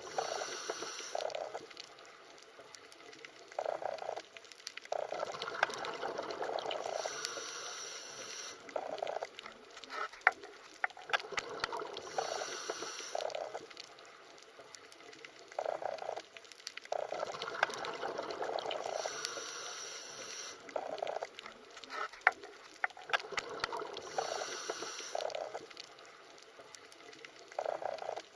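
Underwater water ambience: muffled bubbling and gurgling with scattered sharp clicks, the same pattern coming back about every six seconds.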